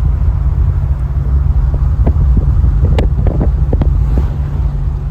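Vehicle on the road, with a loud, steady low rumble of road and wind noise on the microphone and a scatter of short clicks and knocks in the middle.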